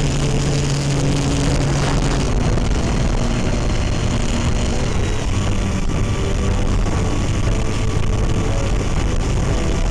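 Radio-controlled model airplane's motor running steadily and loudly, with a thin high whine over a low hum.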